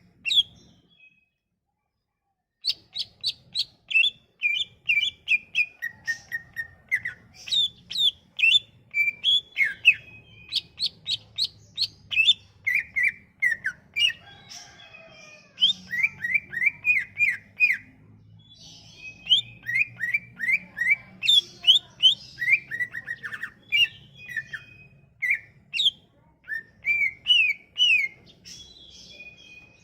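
Cucak ijo (greater green leafbird) singing a fast, varied song of rapidly repeated chirping notes and short trills, with a pause about a second in. It is a lure song (pancingan) played to set a silent cucak ijo singing.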